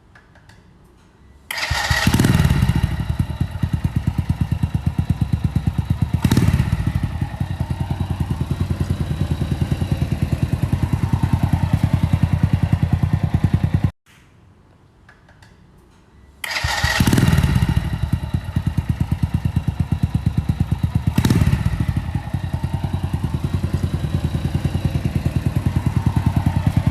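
Honda Astrea Prima's small four-stroke single-cylinder engine breathing through a custom standard-style exhaust: it starts about a second and a half in and idles with a steady, even exhaust beat, with short throttle blips just after starting and about four seconds later. It cuts off suddenly halfway through, and the same start, blips and idle come again.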